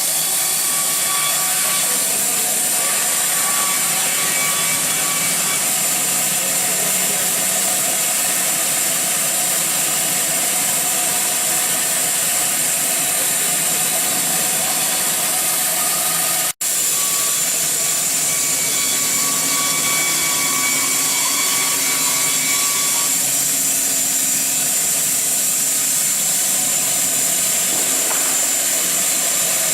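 Narrow-blade portable bandsaw mill running steadily with a loud hiss, the sound of the saw at work, cut off for an instant about halfway through.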